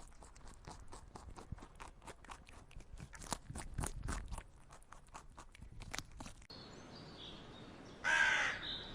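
Irregular crunching clicks, then a short pitched animal call near the end.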